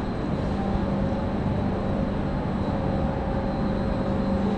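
Steady low hum of a train standing at a station platform, with a constant drone that holds its pitch.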